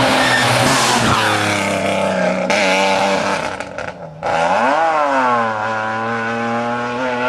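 Car engines revving hard as fast cars race along the road, loud. Around four seconds in the sound drops out briefly, then an engine note swoops up and back down and holds steady.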